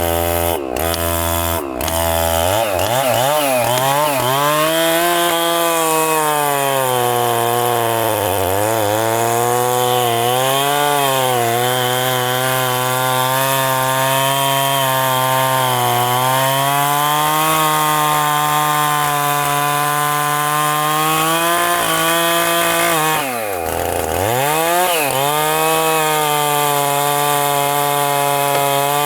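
Chainsaw cutting into a very thick tree trunk, its engine running continuously under load. The pitch sags several times as the saw labours in the wood, dropping deeply once about 23 seconds in before picking back up.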